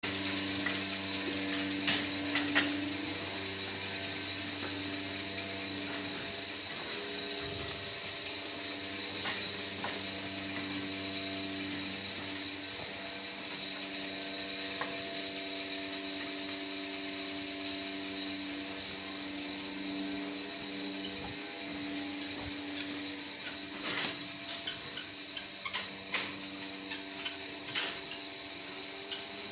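A steady mechanical hum made of several held tones, with scattered clicks and knocks that come more often near the end.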